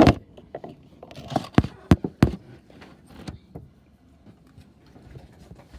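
A run of knocks and thuds from things being handled and set down close to the microphone: a sharp knock at the start, three heavy thumps in quick succession about a second and a half in, then scattered faint clicks.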